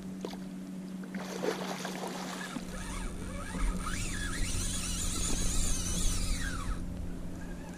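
Fishing reel's drag screaming as a hooked shark pulls line off: a high whine that wavers up and down in pitch for about five seconds, then fades.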